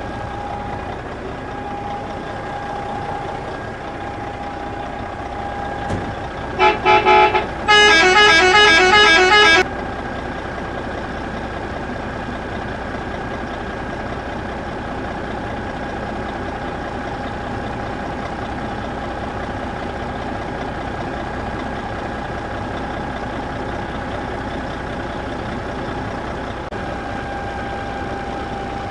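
A steady engine-like hum runs throughout. About six and a half seconds in, a vehicle horn gives two short toots, then plays a warbling musical horn call for about two seconds.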